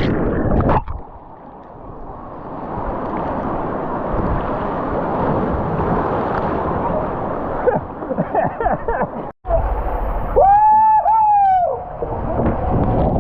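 Steady rushing, splashing water that swells for several seconds, then after a sudden break, two short high calls that rise and fall.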